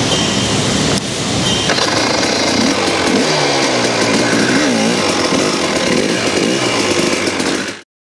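Two-stroke 300 enduro motorcycle engine running and being revved, its pitch rising and falling repeatedly; there is a break about a second in, and the sound cuts off suddenly near the end.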